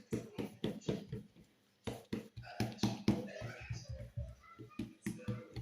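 Hands slapping and patting oiled msemen dough against a work surface in quick, repeated strokes, several a second, as the dough is spread and folded thin.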